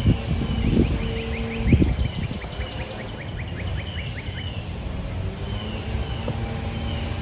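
A songbird singing a fast trill of short descending notes, then a few separate chirps, over a steady distant engine hum. A few dull thumps come in the first two seconds.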